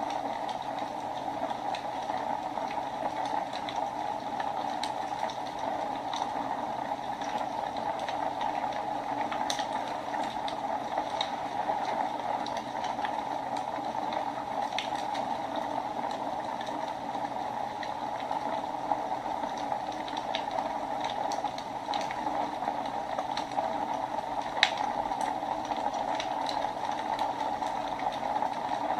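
Wood fire burning in a fireplace: a steady hiss with scattered sharp crackles and pops.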